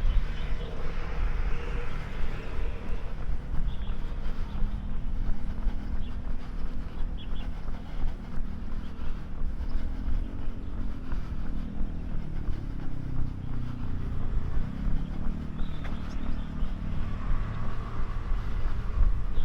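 Road traffic over a steady low rumble: a motor vehicle's engine passes around the middle, its note rising and then falling.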